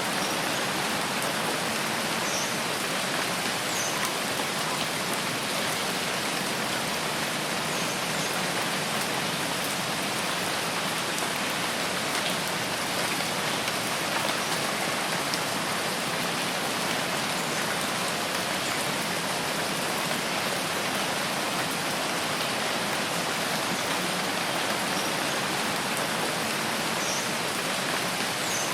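Steady rain falling, an even unbroken hiss, with a few faint high chirps now and then.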